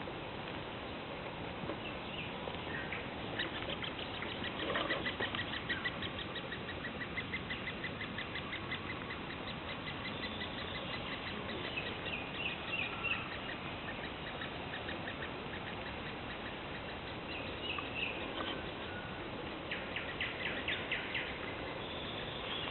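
Songbirds singing in a forest: one bird gives a long run of rapidly repeated high notes lasting several seconds, and others answer with short quick phrases, over a steady background hiss.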